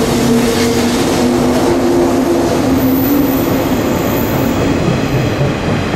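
JR East 485 series electric train pulling out of a station and rolling past along the platform. Its wheels and running gear make a steady rumble, with a low, multi-tone motor hum that fades out about halfway through.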